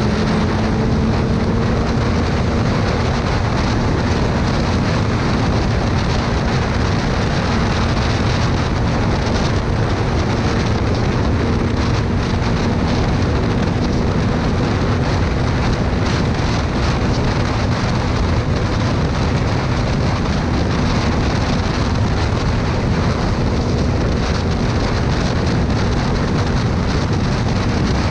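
Motorcycle engine running at a steady cruising speed, its hum rising a little in the first couple of seconds and then holding, under heavy wind rush over the microphone.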